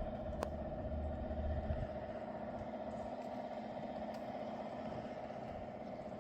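Scania S660 truck's V8 diesel engine running steadily, with a deep rumble for the first couple of seconds that then eases off. A sharp click comes about half a second in.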